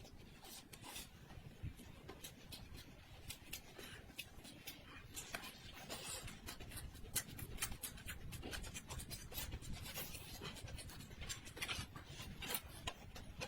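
Eating at a table: many small, irregular clicks and scrapes of utensils on tableware, with mouth noises, faint and a little busier from about halfway through.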